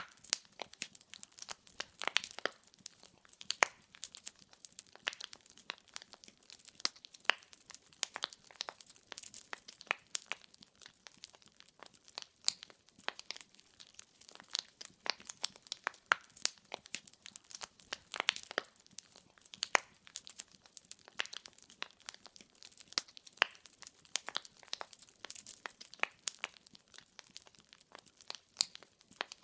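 Firewood burning in a fireplace, crackling steadily: many small irregular pops and snaps, with a few sharper, louder pops scattered throughout.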